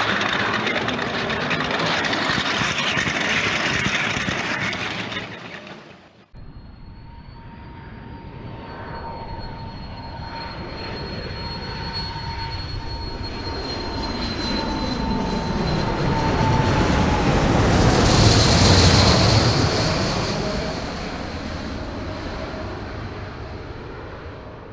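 An aircraft flying past: its engine tone and whine build, drop in pitch as it passes, loudest about three-quarters of the way in, then fade. Before it, a different steady noisy sound cuts off abruptly about six seconds in.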